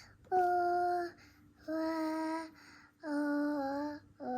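A young child singing a string of held notes without words, about one a second, each a little lower than the one before.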